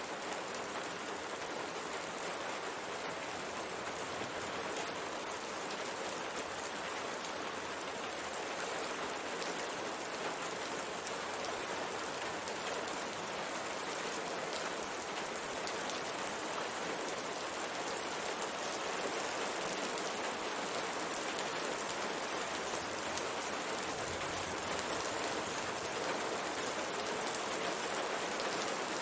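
Steady rain pattering on a window pane, a constant hiss dotted with many small drop taps.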